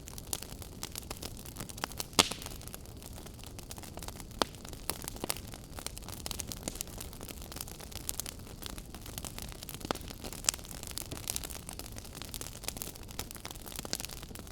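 Wood fire burning in a fireplace: a steady low hiss with irregular sharp crackles and pops, a few louder snaps about two, four and ten seconds in.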